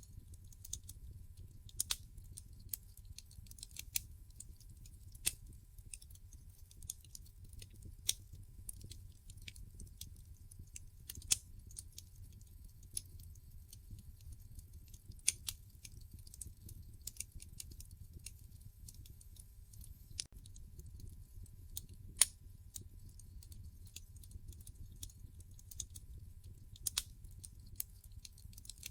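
Wood fire in a fireplace crackling: irregular sharp snaps and pops, a few louder than the rest, over a low steady rumble.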